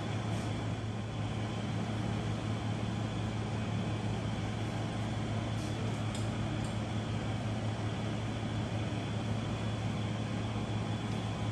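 Steady low mechanical hum with an even hiss, with a few faint light clicks near the start and about six seconds in.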